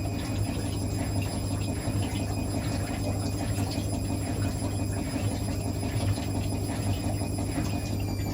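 Hotpoint WML540 washing machine running mid-cycle: a steady low hum with faint clicks and rustling over it.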